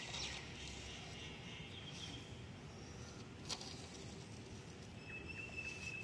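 Faint birds chirping in the background over a low steady noise, with one sharp click about three and a half seconds in.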